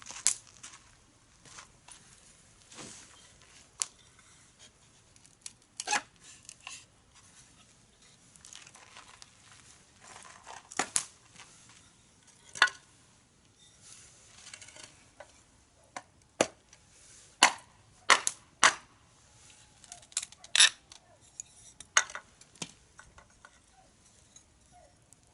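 Burning firewood in a fire pit crackling, with irregular sharp pops at uneven gaps, some much louder than others.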